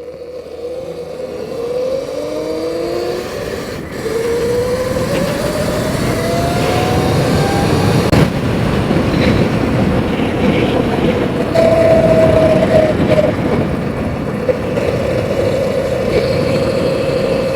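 Sur-Ron Light Bee X electric dirt bike on the move: its motor and chain drive whine, rising in pitch several times as it picks up speed in the first few seconds, then holding a steady pitch, over wind and tyre noise.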